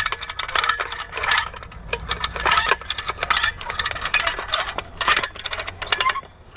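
Metal chain and hooks of a come-along hand winch clinking and rattling in irregular clusters as it is handled and rigged.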